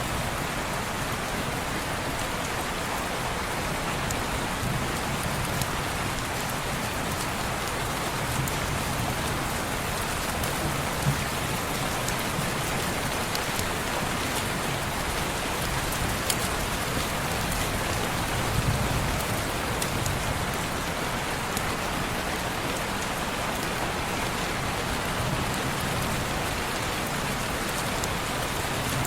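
Steady rain pattering on window glass, mixed with the occasional sharp crackle of a fireplace.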